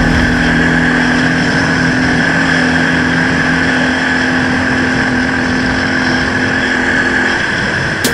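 A car driving steadily, with constant engine and road noise and a low engine hum that fades about seven seconds in.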